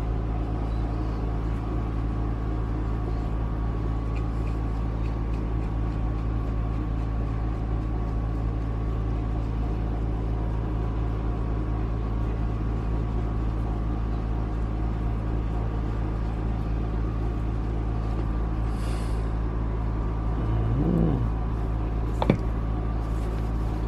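Steady low mechanical hum from a running machine, holding several fixed tones without change. A single sharp click about 22 seconds in.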